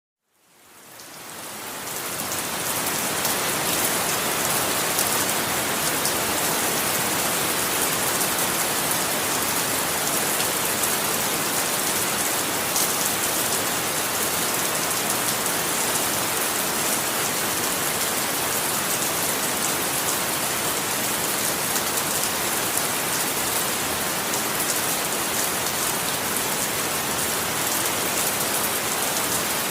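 Steady heavy rain falling on a surface, a dense even hiss with fine pattering of drops, fading in over the first couple of seconds.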